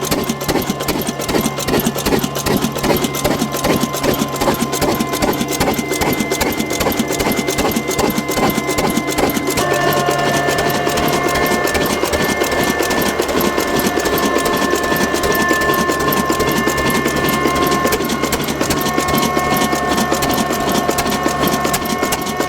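Small engine running steadily with a fast, even mechanical clatter and a whine over it. The whine shifts to a different pitch about ten seconds in.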